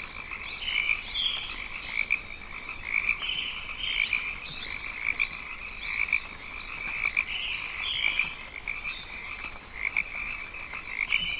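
Rainforest chorus of calling frogs: a steady pulsing trill overlaid with many short rising chirps, repeating over and over.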